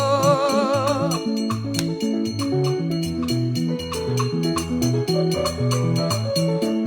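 Gospel worship music: a singer's held note with vibrato ends about a second in, then the band carries on with an electronic keyboard, a walking bass line and a steady quick drum beat.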